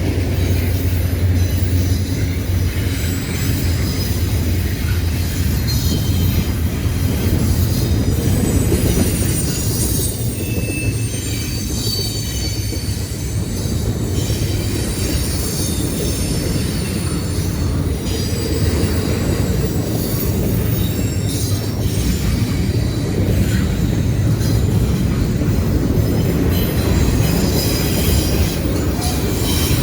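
Freight train cars rolling past close by: a steady low rumble of wheels on rail, with high thin wheel squeals coming and going throughout.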